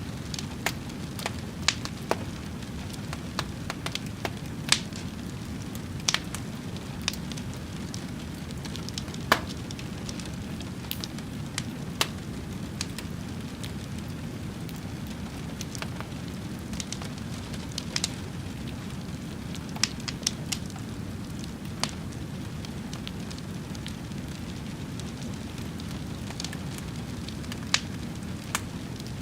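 Wood fire burning with a steady low rushing sound and sharp, irregular pops and crackles, about one or two a second.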